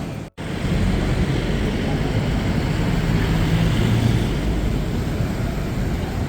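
Steady rumble of a moving vehicle's engine and road noise, starting just after an abrupt cut.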